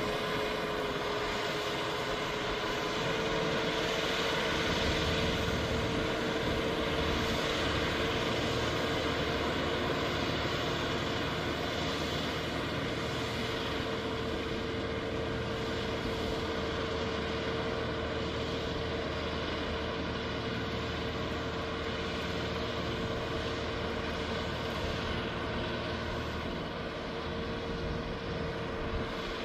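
Farm tractor engine running steadily while pulling a rotary tiller through the field, with a steady whining tone over the engine noise. The engine note eases slightly near the end.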